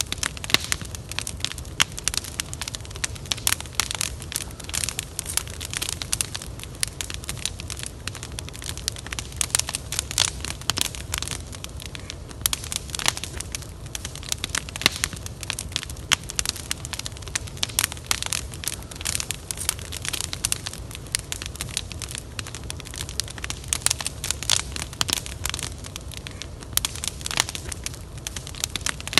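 Wood fire burning, with dense irregular crackling and popping over a steady low rumble.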